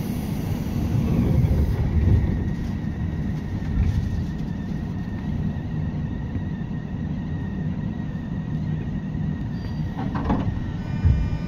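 Running noise of a JR 201 series electric train heard from inside the car: a steady low rumble from wheels and track, with a thin steady high tone through most of it. There is a short clatter about ten seconds in, and near the end a set of steady whining tones comes in.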